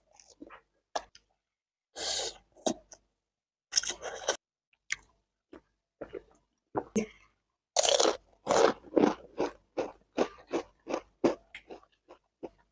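Close-miked biting and chewing of crunchy instant noodles: separate crunchy bites, then a quick run of crunches, about two to three a second, from about eight seconds in.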